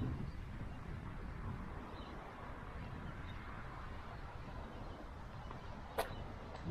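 Wind buffeting the microphone as a low rumble, strongest at the start and easing off, with a single sharp click about six seconds in.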